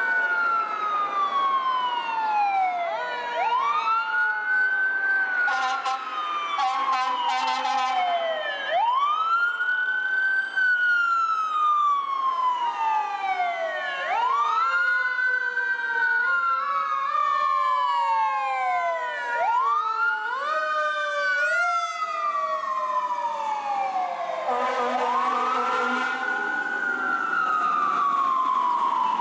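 Several fire apparatus sirens wailing at once, the loudest rising quickly and falling slowly about every five seconds, with fainter faster wails overlapping. Steady horn blasts sound twice, about six seconds in and again near the end.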